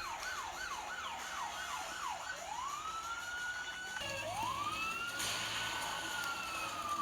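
Toy police car's electronic siren sounding: a fast yelp of quick repeated sweeps for about two seconds, then slow rising-and-falling wails.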